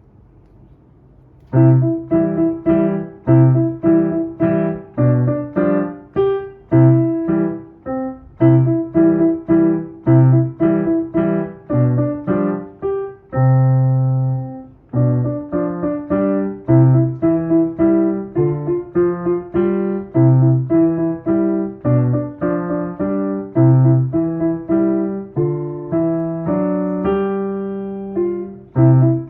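A solo piece played on a piano keyboard: a simple melody over regular low notes, starting about a second and a half in, with one long held chord about halfway through.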